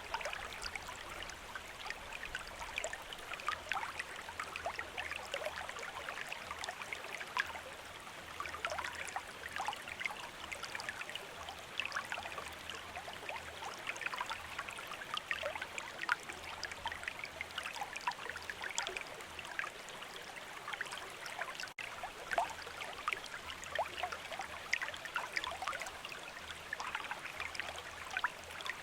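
River water running: a steady babbling rush with many small splashes and trickles, broken by a split-second gap a little over two thirds of the way through.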